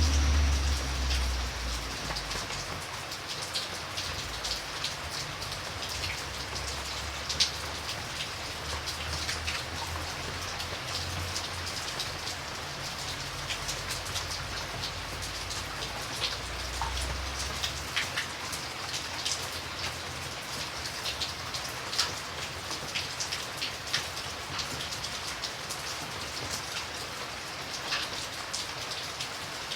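Steady rain falling, with many individual drops striking nearby surfaces as sharp scattered taps. A low rumble underneath fades out about two-thirds of the way through.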